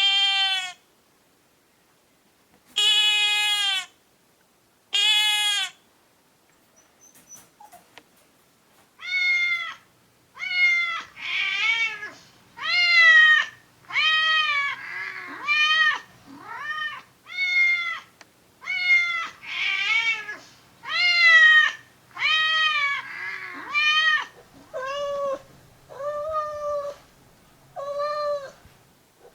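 Cat meowing over and over: three calls, a short pause, then a long run of meows about one a second, each rising and falling in pitch.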